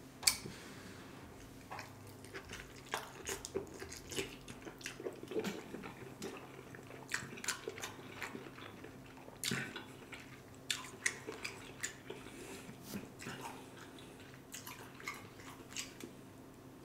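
Close-miked eating: wet chewing and lip smacking of king crab meat coated in cheesy Alfredo sauce, with many short sharp clicks scattered throughout.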